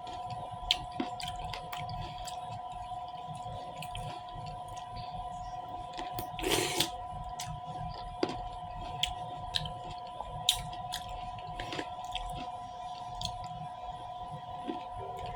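Close-miked chewing and mouth sounds of a person eating, with wet clicks and smacks scattered irregularly and a short breathy burst about six and a half seconds in. A steady faint hum runs underneath.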